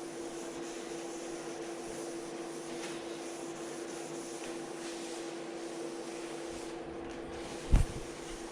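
Steady mechanical hum of a running motor, even in pitch and level, with one short low thump near the end.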